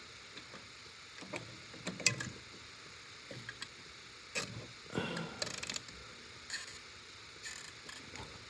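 Nylon zip tie being fastened around a newly fitted refrigerator compressor relay: scattered clicks and handling noises, with a quick run of ratcheting clicks about five seconds in as the tie is pulled through.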